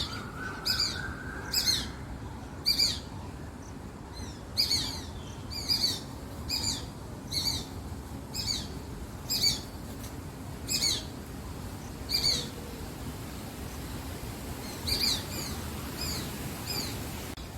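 A bird calling over and over: short, high calls that each slide down in pitch, roughly one a second, with a pause of a couple of seconds near the end.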